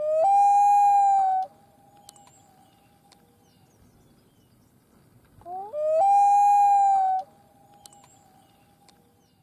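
A long pitched call, sounded twice about five and a half seconds apart and identical each time. Each one slides quickly up into a held high note for over a second, then leaves a fainter lingering tone.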